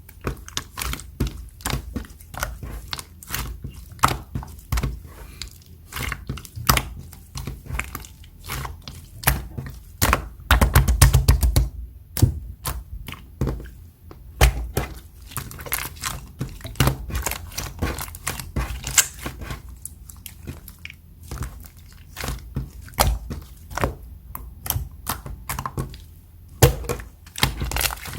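Silver marbled slime being squeezed and poked by hand, giving a quick, irregular run of sticky clicks and pops from trapped air. The pops come thickest and loudest about ten to twelve seconds in.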